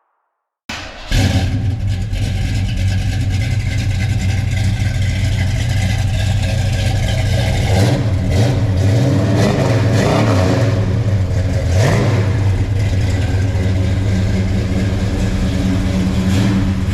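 A 1970 Chevelle's 454 big-block V8 runs through its new Flowmaster mufflers, H-pipe and tailpipes, with a deep, steady exhaust note. It comes in abruptly under a second in. The throttle is blipped a few times around the middle, with the pitch rising and falling.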